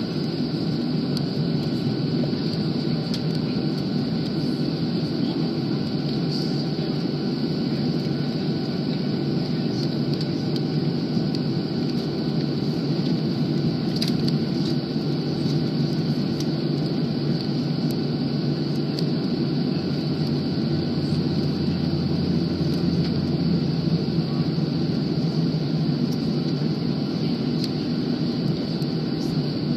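Steady jet-engine drone heard inside an airliner cabin as the plane readies for takeoff, with a few faint clicks and rattles.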